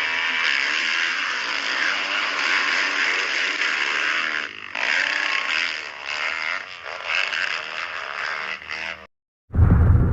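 Dirt bike engine running and revving with a rushing noise over it, cutting off about nine seconds in; a sudden loud noise starts just before the end.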